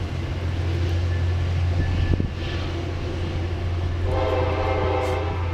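MBTA diesel commuter train pulling away with a steady low engine drone; a train horn sounds once about four seconds in, a blast of a second and a half.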